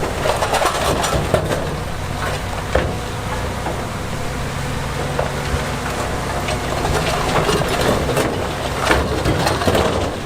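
Heavy diesel machinery running steadily while large stones clatter, knock and grind against each other and against steel, with a cluster of sharp knocks in the first second or so and more toward the end.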